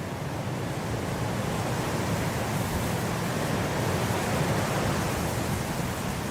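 Blizzard wind blowing as a steady rushing noise, swelling into a stronger gust through the middle and easing slightly near the end.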